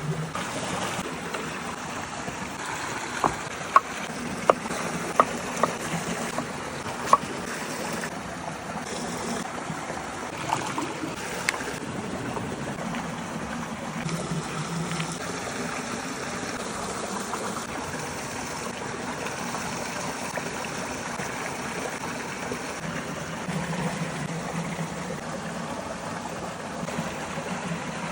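Steady rush of a running stream, with about six sharp knocks a few seconds in and a couple of fainter clicks a little later.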